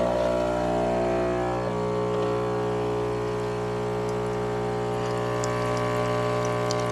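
Philips 3200 LatteGo espresso machine's pump running with a steady hum while brewing a drink, with faint ticks of liquid dripping in the second half.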